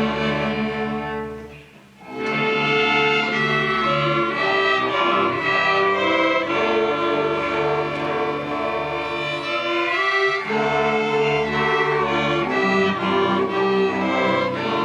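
A string orchestra of violins, violas and cellos playing a sustained passage, with a brief pause about two seconds in before the next phrase starts.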